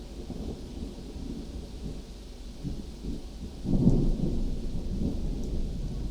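Thunder rumbling, swelling to its loudest a little past the middle and then slowly dying away.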